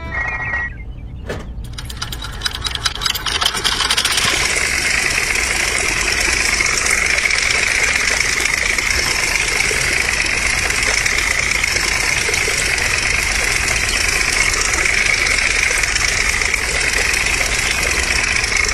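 A small tractor motor starting up: a train of clicks speeding up over the first few seconds, then running steadily with a constant high whine.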